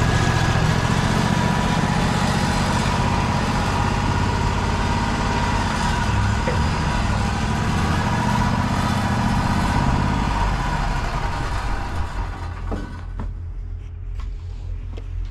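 Wood-Mizer portable band sawmill running, its engine and band blade going steadily. The noise falls away about twelve seconds in, leaving a low engine hum and a few clicks.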